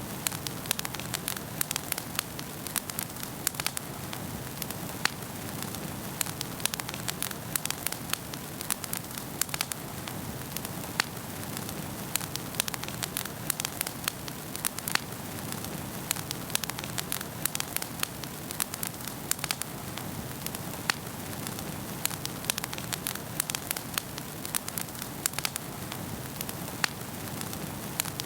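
Wood fire burning in a fireplace, crackling steadily with many sharp irregular pops over a soft continuous hiss.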